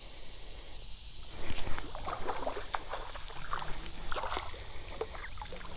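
Water splashing and sloshing, starting with a loud splash about a second and a half in and going on in irregular bursts.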